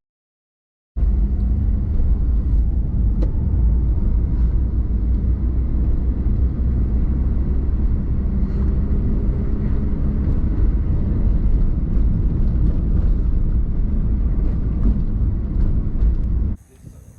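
A vehicle engine running at a steady speed, a loud even low rumble with a constant hum, starting suddenly about a second in and cutting off abruptly near the end.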